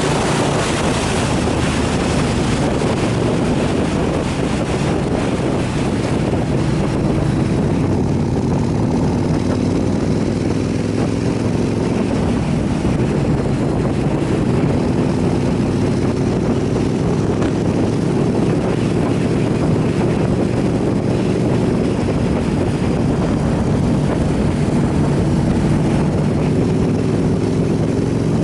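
Motorcycle engine running steadily at road speed, its pitch drifting gently up and down, under heavy wind noise on the microphone.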